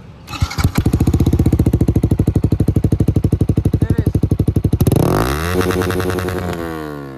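Yamaha R15 V4's 155 cc single-cylinder engine with an Akrapovic full-system exhaust, its dB killer fitted, starting up and idling with a rapid, even exhaust pulse. About five seconds in it is revved up, held briefly, then falls back down near the end.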